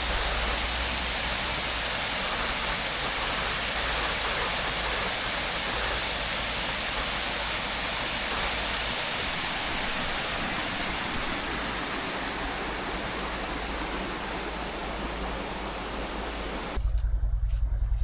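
Creek water running over an ice-covered waterfall: a steady rushing hiss. Near the end it cuts off abruptly, replaced by a louder, pulsing low rumble.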